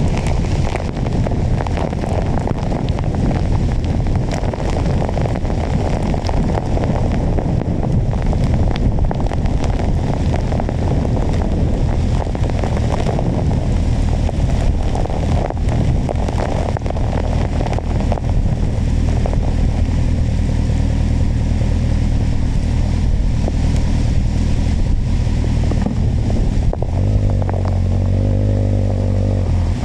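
Kawasaki motorcycle engine running under way, mixed with wind buffeting the microphone. About 27 seconds in, the engine note turns into a clearer, steady hum.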